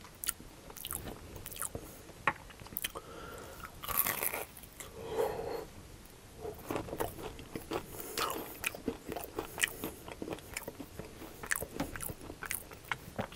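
Close-miked chewing of a crispy breaded, fried mashed-potato cake: repeated crackly crunches, with a louder crunchy bite about four seconds in.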